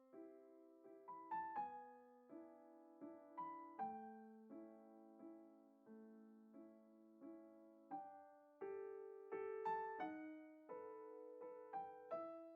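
Soft, slow solo piano music, single notes and small chords struck one after another, each fading away before the next.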